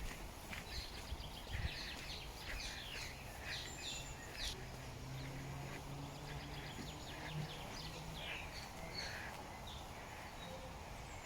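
Songbirds chirping and singing, with many short high calls and quick trills throughout, over steady outdoor background noise.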